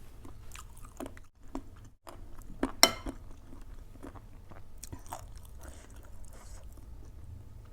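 A person chewing and crunching mouthfuls of spicy soft-bone (cartilage) soup close to the microphone, with wet mouth clicks; the loudest is a sharp smack about three seconds in.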